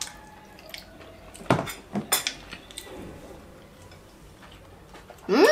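Chopsticks clinking against a ceramic rice bowl: a few short, separate clinks between about one and a half and three seconds in.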